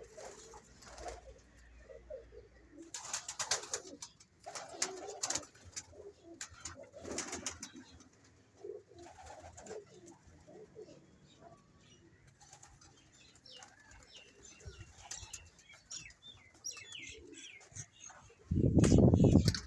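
Domestic pigeons cooing repeatedly, with several short rustling bursts in the first half and a loud low rumble about a second long near the end.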